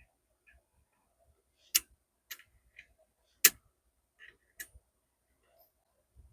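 A few sharp, irregular clicks and taps of a bit screwdriver with an Allen bit working at the bolts under a microscope stage, with two louder clicks about two and three and a half seconds in.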